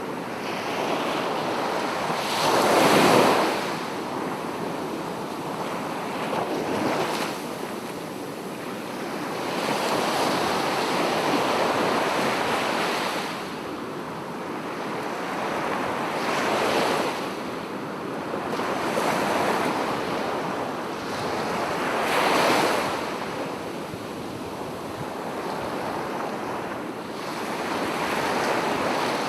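Sea waves breaking and washing ashore, swelling and falling every few seconds; the loudest break comes about three seconds in.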